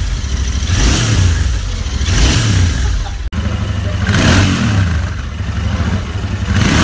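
Royal Enfield 650 parallel-twin motorcycle engine being revved in short blips, about four times, settling back to idle between them, with a brief cut about three seconds in.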